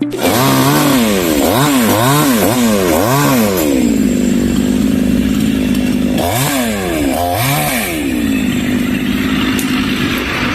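Chainsaw engine revving up and down several times in quick succession, then running at a steady high speed, revving twice more partway through. This is a chainsaw cutting up trees felled by a storm.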